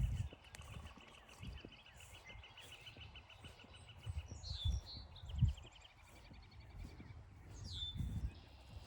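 Footsteps thudding on a forest trail while wild birds sing. For the first three seconds or so a bird gives a long, fast, even trill; after that come short high chirps and a falling call near the end.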